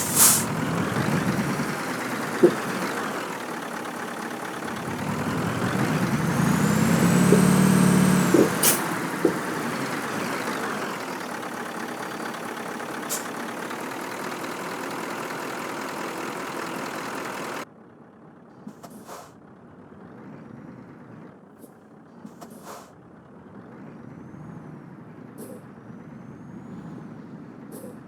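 Scania truck's diesel engine running under load on a rough track, climbing in pitch and level about five seconds in and easing off a few seconds later, with a few brief sharp hisses. About two-thirds of the way through the sound suddenly becomes quieter and duller.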